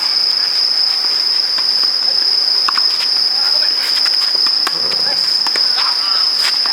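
A steady, high-pitched chorus of insects singing, loudest and unbroken throughout. A few sharp clicks and knocks are heard over it.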